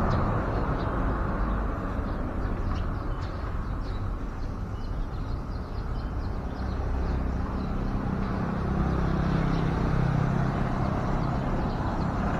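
Steady road traffic noise, with a low engine hum growing louder in the second half as a vehicle passes. Faint short high chirps come through now and then.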